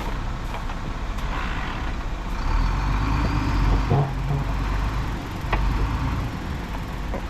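Heavy diesel earthmoving machinery running with a steady low rumble that swells for a moment in the middle, with a few sharp knocks about 4 and 5.5 seconds in.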